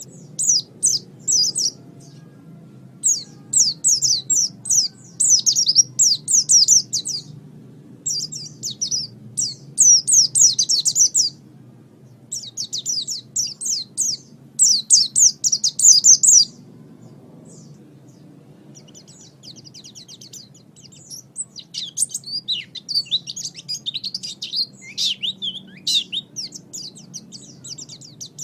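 Oriental white-eye (pleci) song: fast, high twittering phrases of a second or two each, broken by short pauses, turning into a looser, more varied twitter in the last third.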